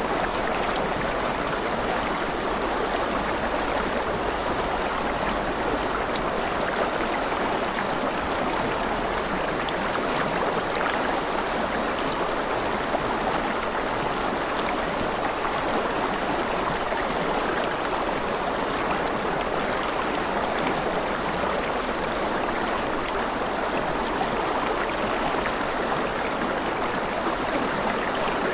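A rushing river: water flowing steadily over rocks in an even, unbroken rush.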